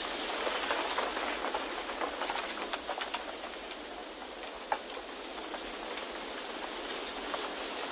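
Steady rushing wind ambience with scattered light ticks and patter through it, and one sharper tick a little past the middle.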